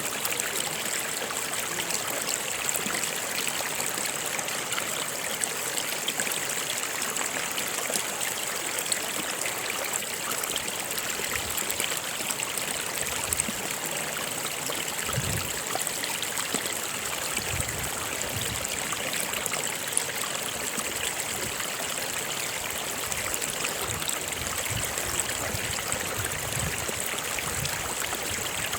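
A stream of water flowing steadily, a continuous rushing and trickling with no break.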